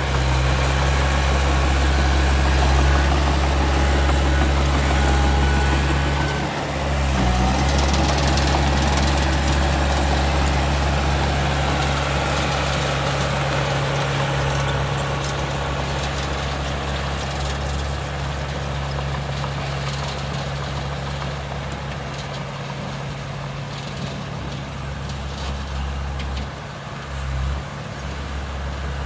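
Heavy diesel earthmoving machinery running steadily with a deep, low hum. There is a brief dip about six and a half seconds in, and the sound slowly grows quieter over the second half.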